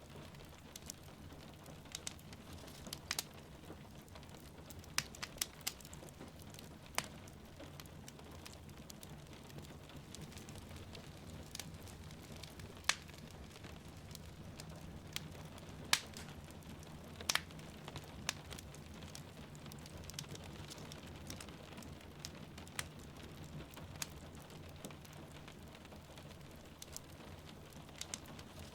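Wood fire crackling in a fireplace, with irregular sharp pops scattered through it, over the steady hiss of rain falling outside.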